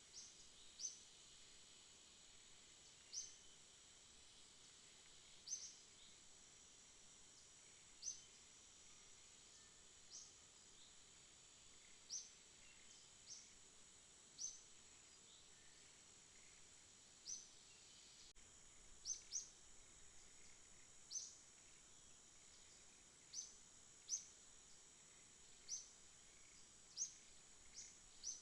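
Night-time outdoor ambience: a faint, steady, high insect drone with short, high chirps every second or two, sometimes in quick pairs.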